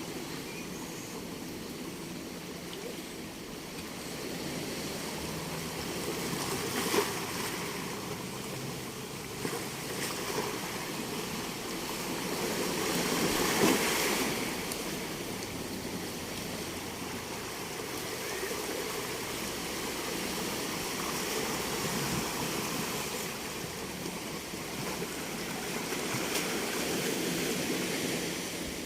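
Sea waves breaking and washing up the beach, a steady rush that swells and ebbs, with the biggest surge about halfway through. A brief sharp knock sounds about seven seconds in.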